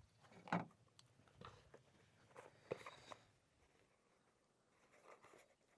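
Near silence broken by a few faint, short clicks and rustles of something being handled, the clearest about half a second in and again a little before the middle.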